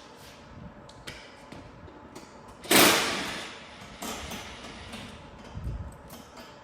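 Scattered clicks and knocks of hand tools and exhaust parts being handled, with one loud sharp bang about three seconds in that rings away over about a second, and a dull thud near the end.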